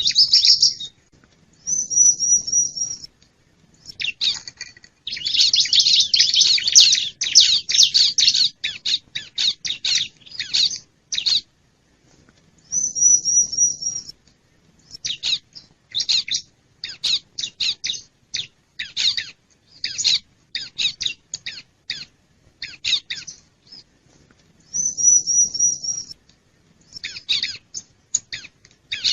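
Wild bar-winged prinias (ciblek) calling: runs of rapid, sharp chips, with a short high trill about every twelve seconds. It is a lure-call recording of the kind played to draw wild ciblek in.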